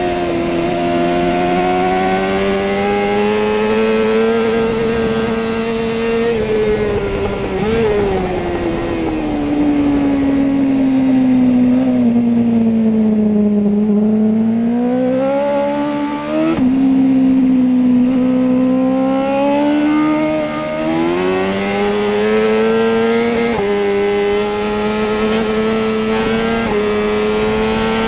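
A 2013 BMW S1000RR HP4's inline-four engine being ridden hard at race pace. The revs climb, then sink steadily through a long braking zone into a slow corner. They then rise again as the bike accelerates hard out of it, with a sudden drop in pitch at each of several upshifts.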